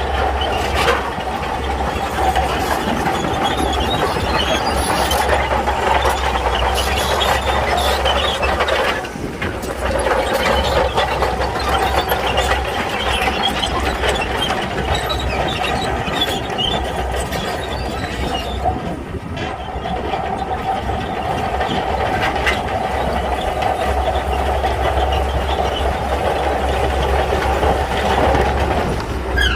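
Shantui crawler bulldozer at work: its diesel engine running steadily under load and its steel tracks moving, easing off briefly twice.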